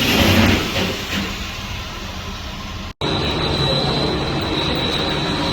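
Lathe running while it turns metal: a dense mechanical noise that is loudest at the start and then eases. After a short break about three seconds in, a steady high whine runs over the machine noise.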